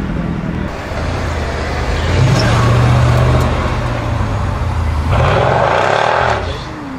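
A sports car's engine running loudly, its note swelling about two seconds in and fading over the next few seconds. Near the end comes a loud rushing noise lasting about a second.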